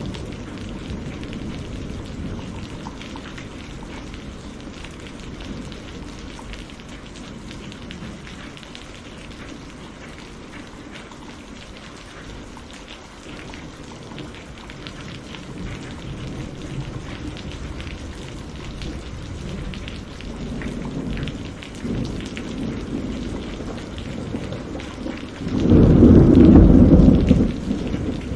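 Steady heavy rain with rolling thunder. The rumble dies down in the middle, builds again, and breaks into a loud thunderclap near the end.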